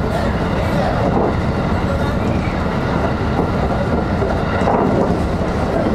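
Electric train running along the line, heard from inside the front car: a steady rumble of wheels on rails and running gear.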